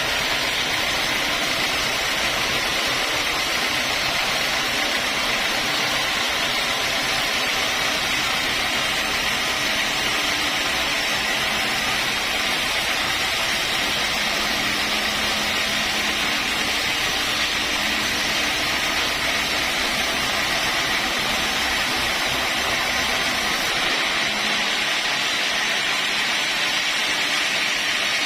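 Sawmill saw running steadily through a mahogany log: a continuous, even sawing hiss with no pauses. The low rumble under it drops away a few seconds before the end.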